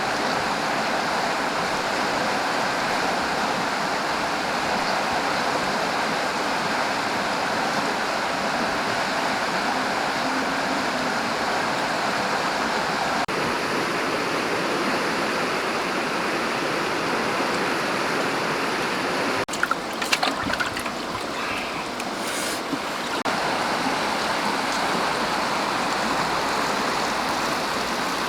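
Stream water rushing and splashing steadily, with a few short, sharp splashes or knocks about twenty seconds in.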